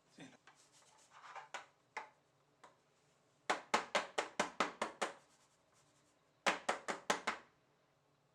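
Two runs of sharp, evenly spaced knocks, about five a second, the second run shorter, with softer rustling and a few clicks before them.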